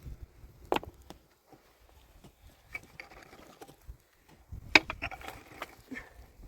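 Irregular knocking and clattering, with two sharp loud knocks, one under a second in and one nearly five seconds in, among lighter clicks and low thumps.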